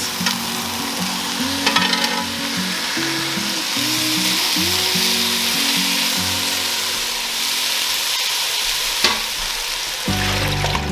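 Cooked beef chunks and browning vegetables sizzling in a hot enamelled cast-iron Dutch oven as a spatula scrapes and stirs them in, with a sharp knock about nine seconds in.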